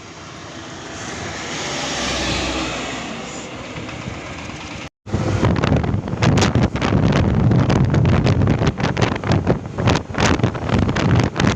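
A road vehicle passes, its noise swelling to a peak about two seconds in and then fading. After an abrupt cut about five seconds in, loud gusty wind buffeting on the microphone with a low rumble beneath.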